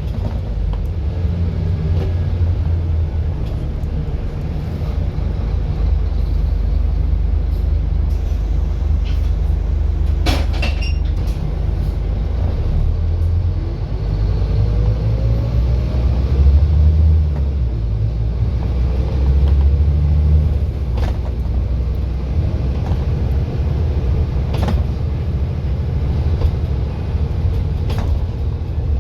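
Scania N230UD double-decker bus's five-cylinder diesel running while under way: a steady low rumble that climbs in pitch a couple of times as it pulls away and accelerates. A few sharp knocks and rattles break in now and then.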